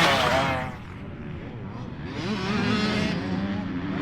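Dirt bike engine coming off a hard rev, its pitch falling over the first second. It drops to a lower drone, then builds again from about two seconds in as the throttle goes back on.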